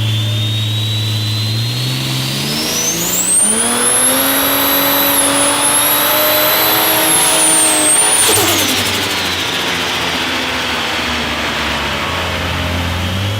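Ford Barra 4.0-litre turbocharged straight-six accelerating hard. The engine revs climb over a couple of seconds while a thin turbo whine rises to a high whistle and holds. About eight seconds in, the whine cuts off sharply and the revs drop back, then both begin to climb again near the end.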